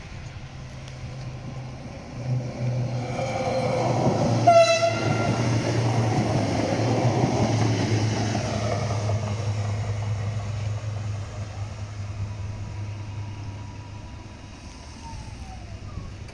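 A train passing and sounding its horn briefly about three to four seconds in. The running noise peaks around then and fades away slowly over the following ten seconds.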